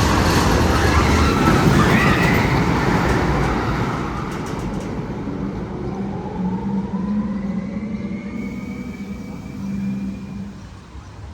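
Roller coaster train rushing along its track, loud for the first few seconds and then falling away. A tunnel sound effect with a low hum and faint rising tones carries on after it and fades near the end.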